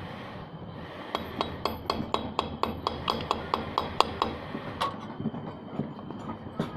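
Rapid, even metallic tapping, about four light strikes a second for nearly four seconds, with one more strike shortly after: a metal tool striking metal during motorcycle work.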